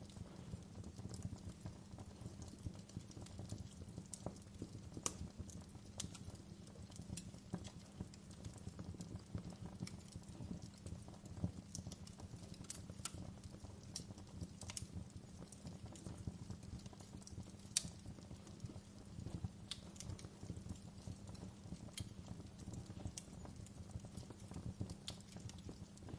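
Wood fire burning in a fireplace: a low steady rumble of flames with irregular crackles and pops, a few sharper snaps standing out.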